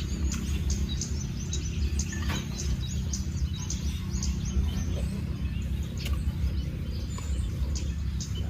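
Small birds chirping in many short, high calls over a steady low rumble of wind buffeting the microphone.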